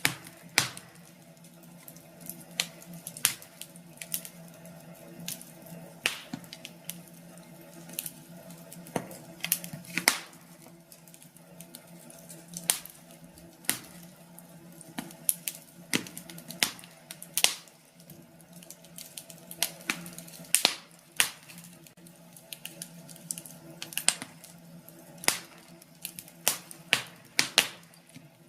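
Wood fire in a fireplace crackling, with irregular sharp pops over a faint steady low hum.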